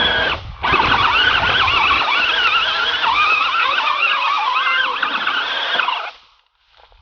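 Power Wheels ride-on toy tractor's electric drive motors and gearbox whining under strain, the pitch wavering as the wheels spin while it is stuck in tall grass. The whine drops out briefly about half a second in, then runs until it cuts off about six seconds in.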